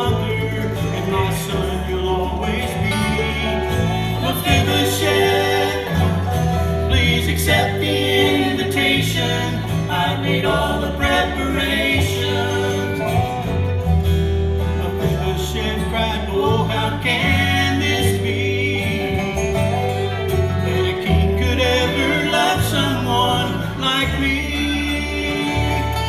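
Bluegrass band playing: rapid banjo picking over acoustic guitar, with a bass line that moves in steady steps underneath.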